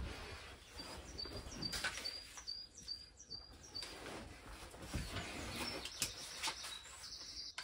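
A songbird repeating a short, high chirp about two to three times a second, with soft rustles and knocks from someone settling onto a cushioned seat and handling a notebook.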